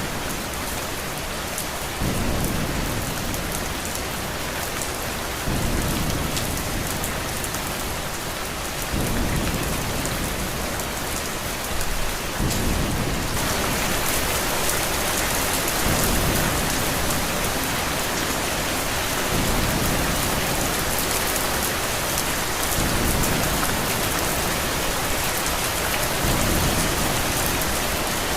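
Steady heavy rain, turning harder and hissier about halfway through. Under it a low rumble swells and fades about every three and a half seconds.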